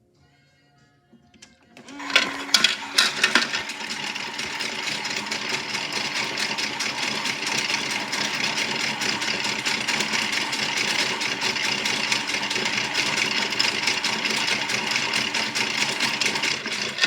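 Toy washing machine's small motor starting about two seconds in with a few knocks, then running steadily with a fast, even rattling whir until it stops at the very end.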